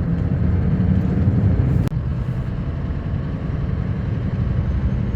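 Heavy truck driving, heard from inside the cab: a steady low engine drone and road rumble. It breaks off sharply about two seconds in, then the rumble goes on.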